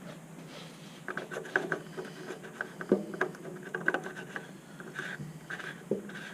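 A plastic lid or fill cap being handled and put back on: a run of light clicks, taps and scrapes, with a few sharper knocks about three seconds in and near the end.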